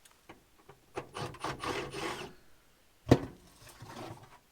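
Rough scraping and rubbing for about a second, then a single sharp knock about three seconds in, followed by brief softer scraping.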